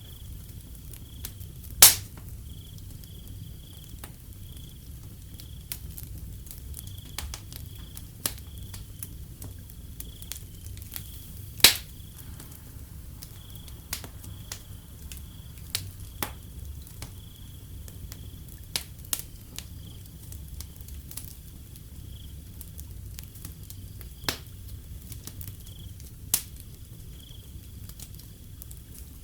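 Wood fire crackling with irregular sharp pops, two of them much louder, about two seconds in and near the middle, over a low steady rumble of the burning. A cricket chirps on and on in the background.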